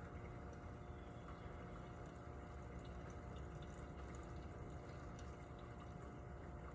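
Steady rain falling, with scattered individual drips ticking through it and a faint steady hum underneath.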